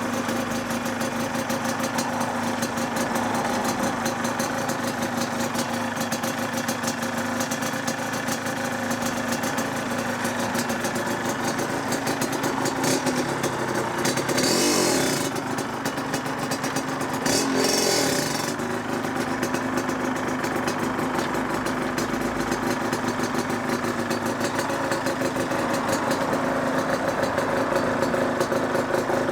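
Yamaha DTR 125's single-cylinder two-stroke engine running steadily at idle, with two short louder bursts a little after halfway.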